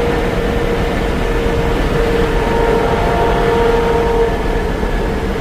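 Ferrari engine and exhaust running at steady revs: a loud, even drone with a low rumble and no rises or falls in pitch.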